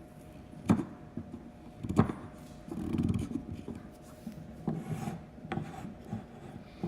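Wooden parts of a toy monster truck kit being handled and fitted: two sharp knocks of wood on wood, then wood rubbing and scraping, with smaller knocks later.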